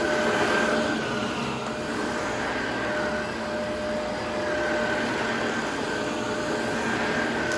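Upright vacuum cleaner running steadily; the pitch of its motor whine sags slightly and recovers every couple of seconds.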